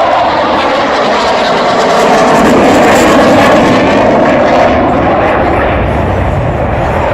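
F-22 Raptor's twin turbofan engines as the jet makes a pass: loud, steady jet noise that builds to its loudest about three seconds in and then eases off, with a deeper rumble growing near the end.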